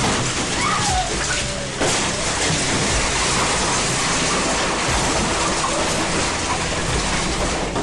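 Tornado winds roaring over a house as it strikes: a loud, steady rush of noise that surges suddenly at the start and again about two seconds in.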